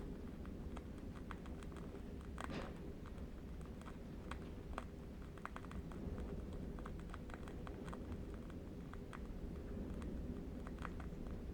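Faint, irregular crackling from a burning candle wick, several small clicks a second, over a low, steady wind rumble.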